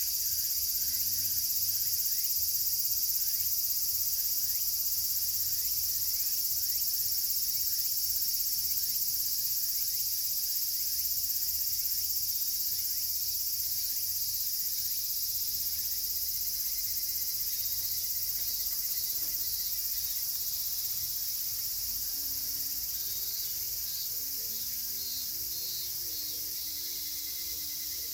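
A dense chorus of many cicadas shrilling together in a steady high-pitched wall of sound (semishigure).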